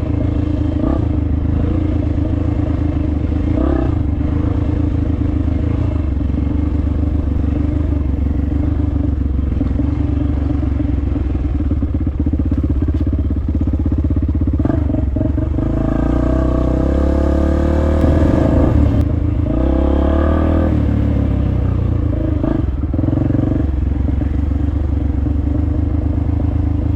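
Dirt bike engine running while being ridden, its note rising and falling with the throttle, with a few short knocks along the way.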